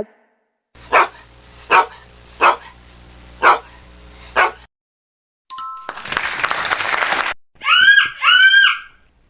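A dog barking five times, about one bark a second, followed by a harsh hissing noise about two seconds long and then two high, arched whining calls from another animal.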